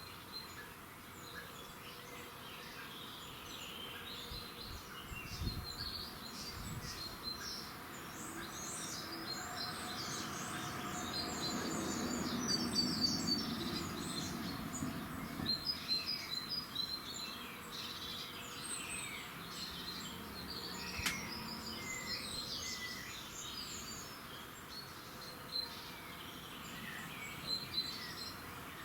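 Many small birds chirping and calling, short high calls overlapping throughout. A low hum swells up in the middle and fades away again.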